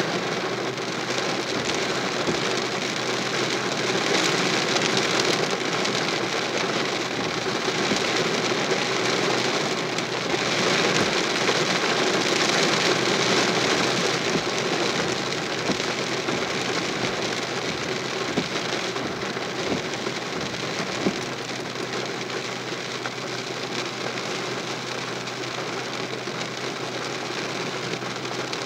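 Heavy thunderstorm rain pouring down and splashing on the ground: a steady hiss that swells a little in the first half and eases slightly toward the end.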